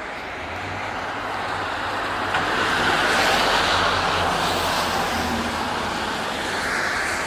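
Road traffic: a motor vehicle passing close by, its tyre noise and low engine hum swelling to a peak about three seconds in and then easing off.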